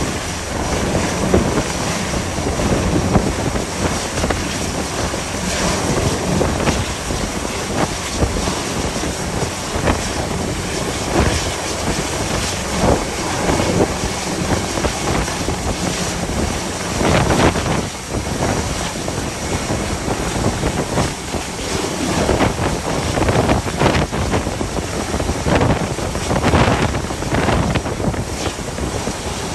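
Strong gale-force wind buffeting the microphone in irregular gusts, over the rush of the sea.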